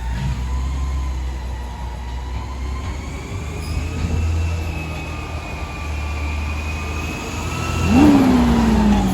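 Garbage truck running, with a steady low engine drone and thin high whines that drift slowly in pitch. About eight seconds in, a louder surge with a tone that slides down.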